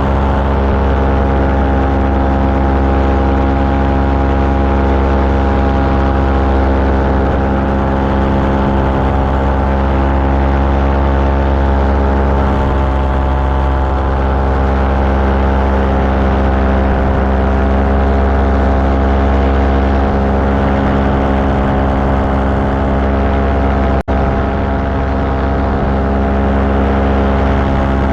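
Engine and propeller of a small aircraft running steadily in flight, a constant drone that holds one pitch throughout. It cuts out for an instant about four seconds before the end.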